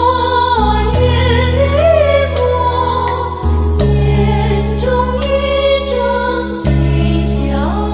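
Devotional hymn in praise of Guanyin Bodhisattva: sung melody over sustained low accompaniment notes, with a regular light percussion beat.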